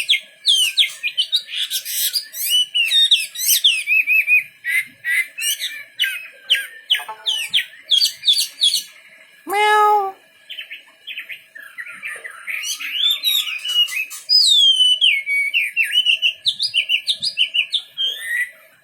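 Chinese hwamei (wambi) in full song: a continuous run of fast, varied whistled phrases, many sweeping up and down in pitch. About ten seconds in, one short, lower, buzzier note breaks in.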